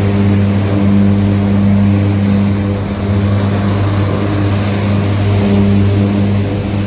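A vehicle engine running with a loud, steady low drone.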